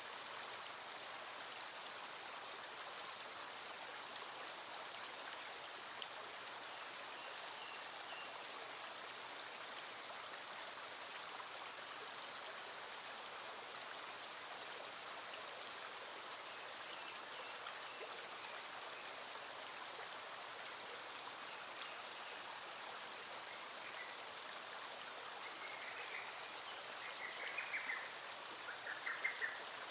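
A small stream flowing steadily, with rain falling on it. Near the end a few short pulsed animal calls stand out above the water, three times.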